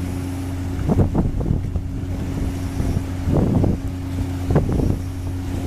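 Steady low drone of the cargo-passenger ship Yurimaru's engine running under way, with wind gusting across the microphone a few times.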